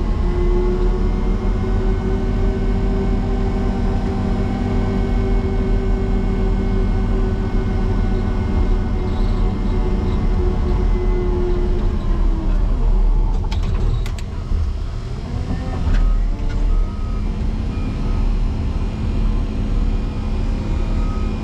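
Motor grader's diesel engine working hard under load as the blade pushes into hard-packed drift snow. About two-thirds of the way through, the engine note sags and drops sharply as the machine bogs down in the snow, with a few short clicks. It then picks back up and runs steadily at a lower pitch.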